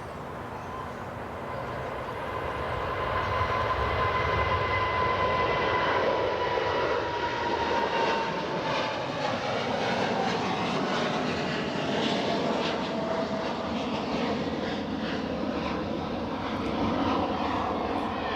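Qantas Boeing 787-9 jet airliner taking off at full power: the engine roar grows over the first few seconds and then holds, with a high engine whine that slowly falls in pitch as the heavily loaded aircraft passes and climbs away.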